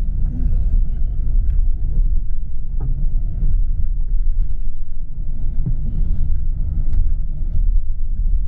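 Steady low rumble of a coach bus driving, heard from inside the passenger cabin, with a few faint rattles and clicks.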